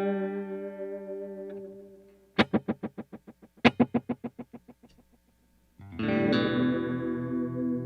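Electric guitar through an Old Blood Noise Endeavors Black Fountain V3 oil-can delay pedal on its short middle mode, with the feedback turned up. A held chord fades out, then two sharp plucked notes each echo in quick repeats, about seven a second, that die away; about six seconds in, a new chord is struck and rings on.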